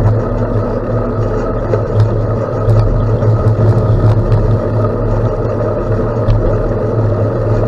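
Loud, steady wind rush and rolling rumble on a moving camera's microphone during a gravel bike ride, with faint scattered ticks.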